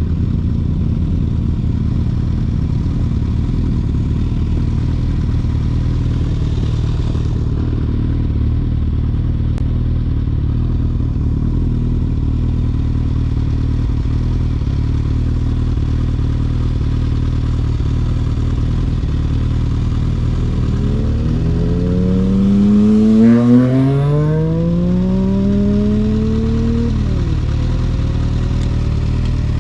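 Motorcycle engine drone held steady at speed. About 20 seconds in, an engine revs up in rising pitch, drops at a gear change and climbs again for a few seconds: a motorcycle accelerating hard through two gears.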